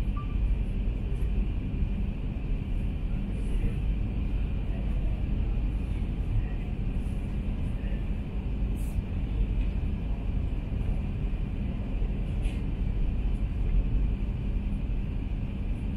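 Steady low rumble and hiss of a Shinkansen train running, heard from inside the carriage with a faint steady whine on top.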